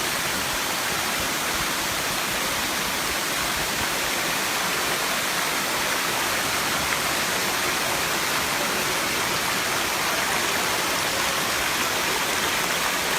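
Water falling at the seventh tier of Erawan Falls: a steady, even rush of water.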